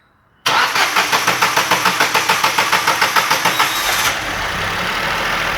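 Ford Ka 1.0 three-cylinder engine started with the starter motor: it turns over with fast, even pulses for about three and a half seconds, then the starter drops out and the engine settles into a steady idle. This is the first start after repairing the broken exhaust valve that had left cylinder two with no compression, and it runs evenly.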